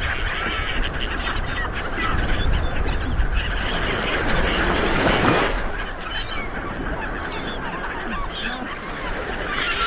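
Sea waves washing on a shore, with a wave breaking about five seconds in, while seagulls call over and over.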